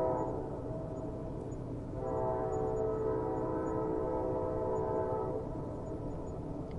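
Distant train horn: the end of one blast fades out at the start, then a second steady blast of about three seconds sounds and fades away, over a steady low rumble.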